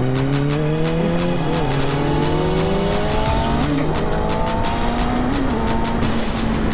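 Kawasaki ZX-6R 636 inline-four engine accelerating through the gears, rising steadily in pitch with three quick, smooth upshifts and then holding a steady speed. Background music with a steady beat plays over it.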